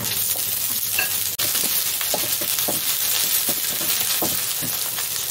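Sliced ginger and shallots sizzling in hot oil in a wok, with a wooden spatula tapping and scraping the pan as they are stir-fried. The sizzle drops out for an instant about a second and a half in.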